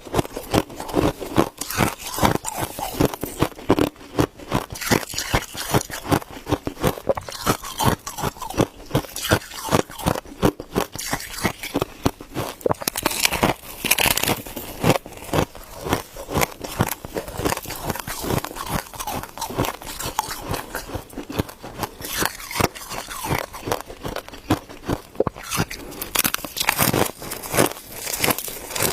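Ice being bitten and chewed close to the microphone: a dense, unbroken run of crisp crunches and crackles.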